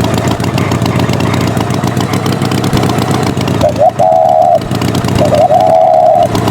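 Tractor engine sound effect running steadily throughout. Two short held higher tones sound over it, each starting with a quick upward slide, about four and five and a half seconds in.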